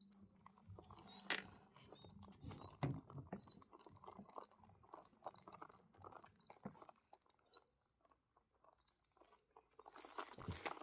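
Newly hatched quail chick peeping: short, high, thin peeps about once a second, with faint rustling and scratching beneath.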